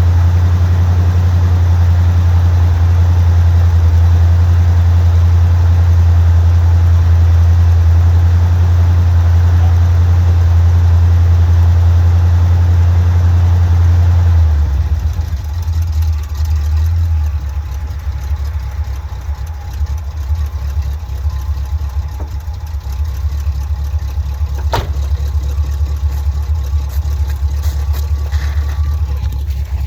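Chevrolet 327 small-block V8 idling after a cold start. It holds a steady, louder idle, then about halfway through the engine note drops and gets quieter, settling into a lower idle.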